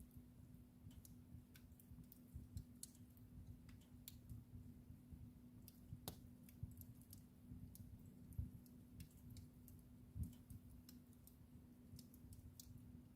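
Wood fire crackling in a fireplace: faint, irregular snaps and pops over a low, steady hum.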